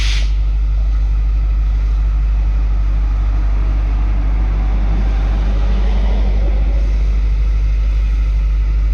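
Steady low running rumble of a heritage train in motion, unchanging throughout.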